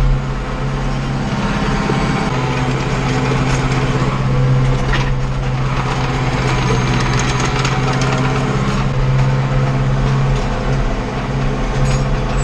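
Tractor diesel engine running steadily at a constant speed, with a little mechanical clatter over it.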